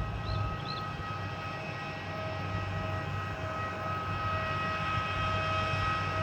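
Jet airliner engines running at idle: a steady whine of several tones over a low rumble. Two brief high chirps sound about half a second in.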